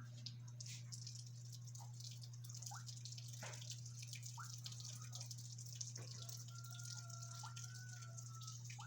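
Parrots making soft scattered chirps and clicks, with a thin whistle held for about two seconds near the end, over a steady low hum.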